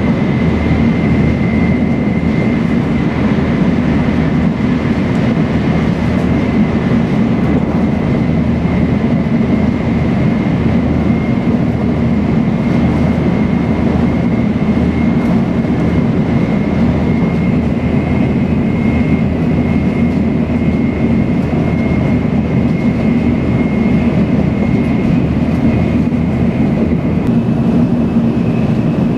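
Running noise heard inside a Shinkansen Hikari train cabin at speed: a steady low rumble with a thin high tone above it, which shifts slightly higher in the second half.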